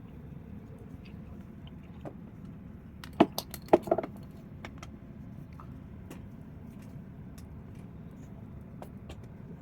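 Wood fire burning, with a steady low rush and scattered small crackles and pops. About three seconds in comes a quick cluster of loud, sharp clicks and knocks with a little ringing, lasting about a second.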